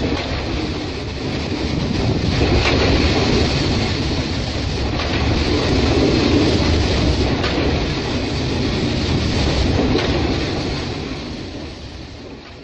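Loaded freight train of open coal wagons rolling past, a steady rushing noise with a few faint clicks. It fades away near the end.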